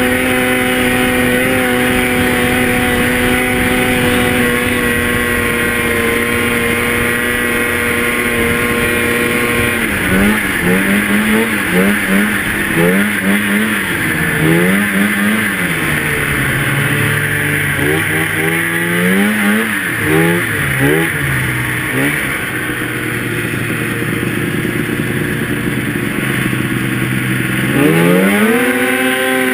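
Two-stroke snowmobile engine running at steady high revs. About ten seconds in it revs up and down over and over as the throttle is worked, then settles to a lower steady speed, and near the end it climbs back to high revs.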